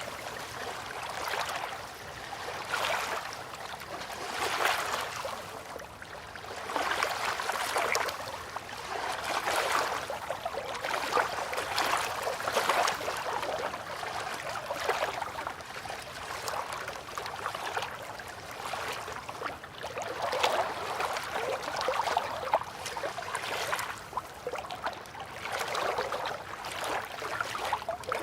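River water lapping and trickling, in uneven gentle swells every second or two.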